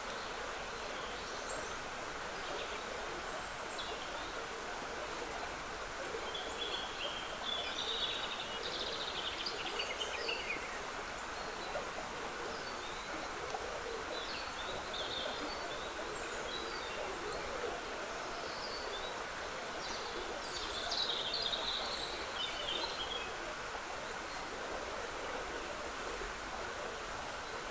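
Trickling woodland stream making a steady rush, with songbirds singing short bright phrases over it. The song is busiest about a quarter of the way in and again about three-quarters through, with scattered single calls between.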